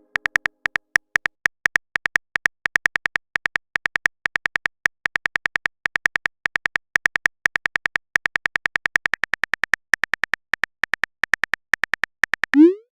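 Chat-app typing sound effect: a fast, uneven run of short high clicks, several a second, as a message is typed out. Near the end a short rising swoop plays as the message is sent.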